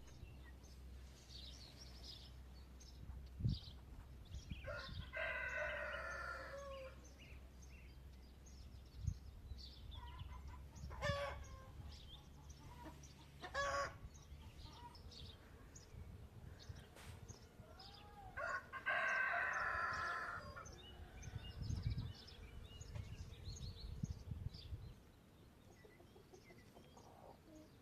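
A rooster crowing twice, each crow lasting about two seconds, with shorter bird calls and chirps scattered around it.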